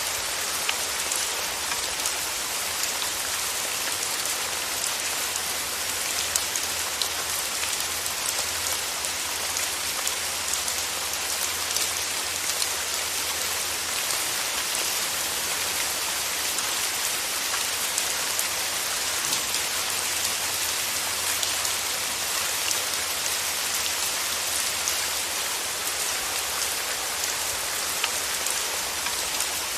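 Steady rain falling, a dense, even hiss with individual drops ticking sharply here and there.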